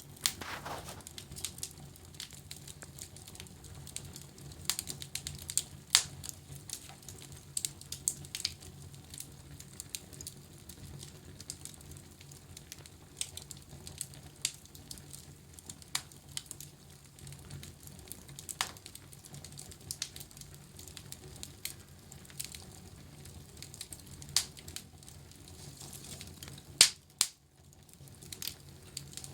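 Wood fire crackling in a fireplace: irregular sharp pops and snaps over a low steady hum, with louder pops about six seconds in and again near the end.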